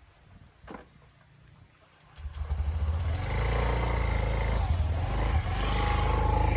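A motor vehicle's engine comes in about two seconds in and runs steadily with a low pulsing rumble.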